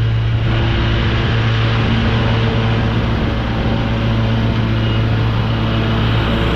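Lawn mower engine running steadily at constant speed while mulching leaves: a loud, even hum.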